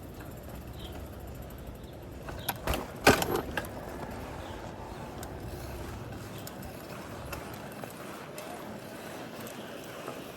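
Steady street and traffic noise heard from a bicycle ride, with a brief cluster of sharp knocks and rattles about three seconds in.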